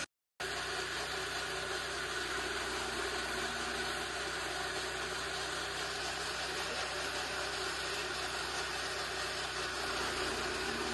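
Chaff cutter machine running steadily with an even mechanical hum and whir, after a brief cut-out in the first half-second.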